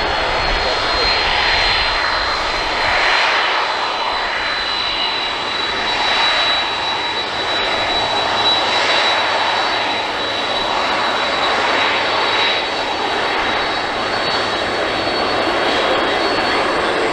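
Boeing 767-300F freighter's jet engines at takeoff power: a loud, steady jet noise with a high whine on top that sinks slightly in pitch, and slow swelling and fading sweeps through it.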